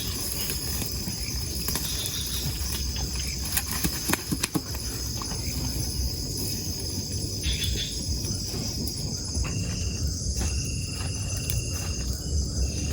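Insects, crickets among them, trilling steadily in one continuous high-pitched chorus, with a second, lower-pitched trill cutting in and out in the second half. A few sharp clicks sound about four seconds in.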